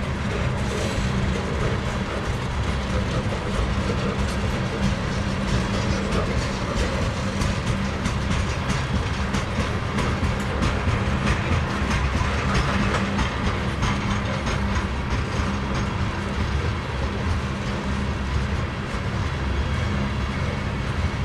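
Loaded coal cars of a slow freight train rolling past: a steady hum of steel wheels on the rails, with faint irregular clicks of the wheels over the track.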